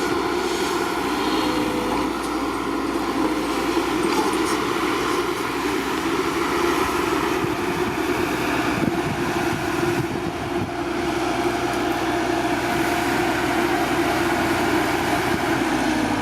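Steady whine of the small electric motor and gearbox of a homemade toy dump truck, running continuously with a slight dip about two-thirds of the way through.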